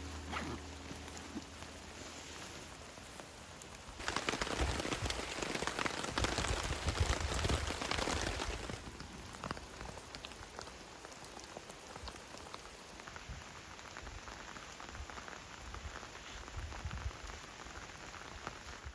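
Heavy rain falling, a steady hiss of drops that swells for about five seconds a few seconds in and then eases back.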